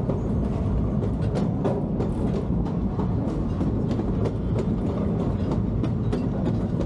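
Amusement-park railroad coach rolling along the track: a steady low rumble with scattered clicks and knocks from the wheels and car.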